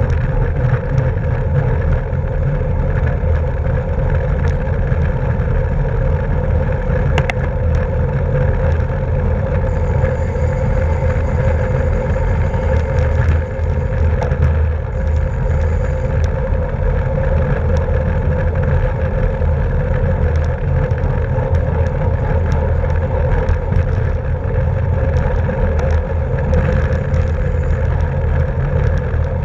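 Steady rumble of wind and road noise from a racing bicycle riding at speed, with a constant hum running through it.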